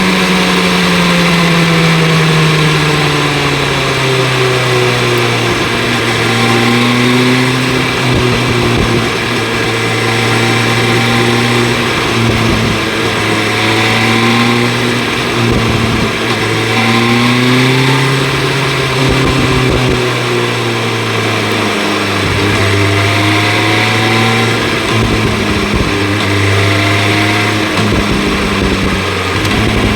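BMW S1000 RR's inline-four engine running through an Akrapovic exhaust while riding. The revs fall over the first few seconds, then hold with small rises and dips.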